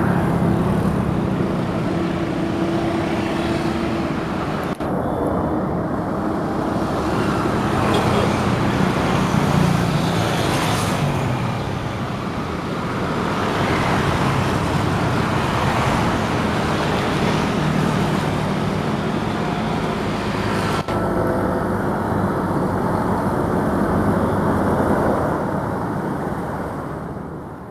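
Steady road traffic noise, with vehicle engines running and passing without a break.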